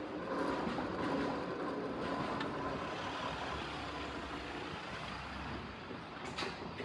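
Keikyu electric train running past with a steady rolling noise and a faint steady whine, just after a horn sounds.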